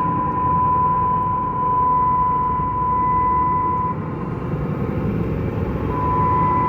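Cummins 6.7 L inline-six turbo diesel in a Ram 3500 running under way: a steady rumble with road noise. A steady high-pitched tone runs over it, dropping out for about two seconds past the middle.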